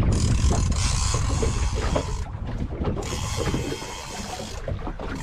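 Boat motor running while under way, with wind buffeting the microphone. The sound is a heavy low rumble under a steady rushing noise, easing slightly in the second half.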